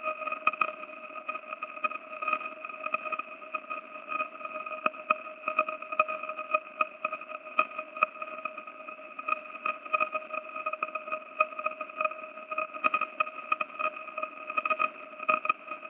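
Radio signal of the Black Widow pulsar (PSR B1957+20) converted into sound: a steady E-flat tone at its 622 Hz spin rate with two higher overtones, over a hiss. The tone flickers irregularly in loudness; the flickers come from the plasma tail blown off its brown dwarf companion, which passes in front of the pulsar and acts as a lens.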